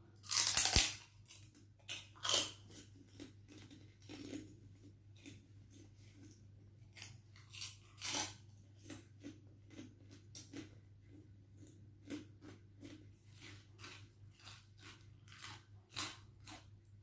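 Chicharon (crispy fried pork rinds) being bitten and chewed close to the microphone. There is a loud crunch about half a second in, then a long string of smaller, irregular crunches.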